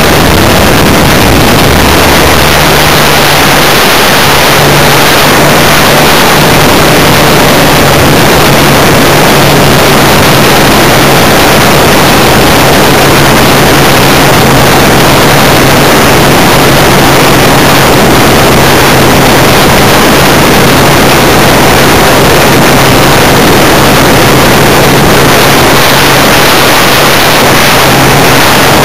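Model airplane engine running steadily at high throttle under loud, constant wind rush on the microphone, heard as a close, very loud, distorted roar. A single steady engine note holds through most of it.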